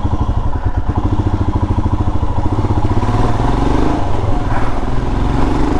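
Royal Enfield Himalayan's single-cylinder engine running steadily as the motorcycle is ridden, its pitch swelling briefly twice in the second half.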